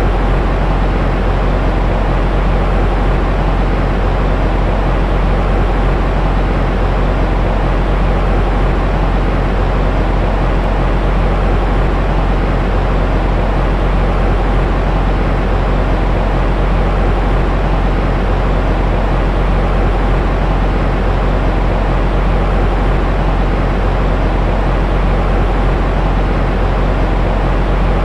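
Steady, unchanging white-noise track for soothing a baby, heavy in the deep bass and dull in the treble, so it sounds more like a low rumbling hush than a bright hiss.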